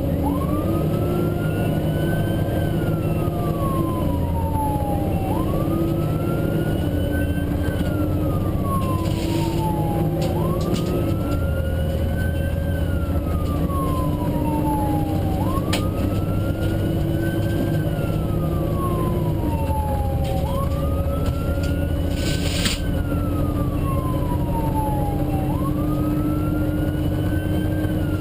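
Fire engine's siren on a slow wail, each cycle rising quickly and then falling, repeating about every five seconds, over the steady rumble of the truck's engine.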